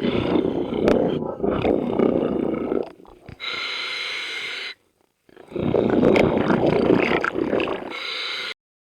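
Scuba diver breathing through a regulator underwater: a long bubbling exhale, a shorter hissing inhale from the regulator, then another bubbling exhale that cuts off abruptly.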